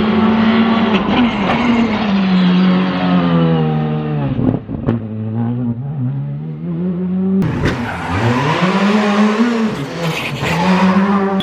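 Skoda Fabia R5 rally car's 1.6-litre turbocharged four-cylinder engine driven flat out, its revs repeatedly climbing and dropping through gearshifts. It has a few sharp cracks about four and a half seconds in as the throttle lifts, and the sound jumps to another flat-out run near seven and a half seconds.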